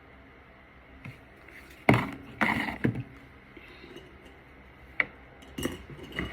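Makeup containers and tools clinking and knocking as they are picked up and set down on a hard surface: a handful of sharp clicks, the loudest about two seconds in.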